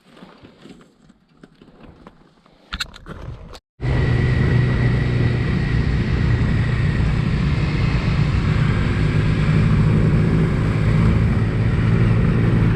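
Faint scattered clicks and knocks. Then, after a sudden cut about four seconds in, a motorcycle at road speed: a steady low engine drone with a rush of wind noise.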